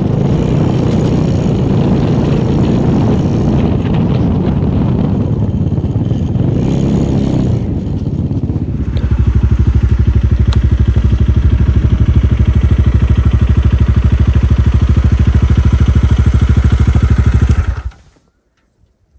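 Motorcycle engine running while riding, with wind rushing over the microphone. About nine seconds in the wind noise falls away and the engine settles into a steady, evenly pulsing note. Near the end the sound cuts off suddenly.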